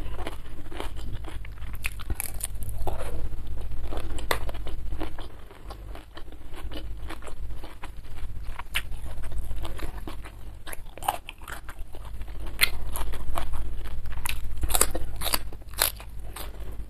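Close-miked eating: crisp bites and crunching, then wet chewing, of shrimp in chili sambal and a bok choy stalk, many short sharp clicks at irregular intervals, over a steady low hum.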